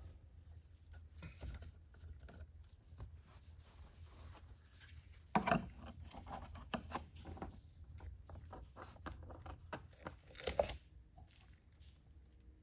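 Quiet hand-handling noises: rustling and crinkling with scattered light clicks, and two sharper knocks about five and a half and ten and a half seconds in.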